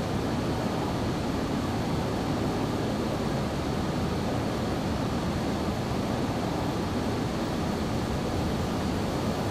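Boeing 737-800 jet airliner: steady rushing noise of its engines and airflow, with a faint steady high whine.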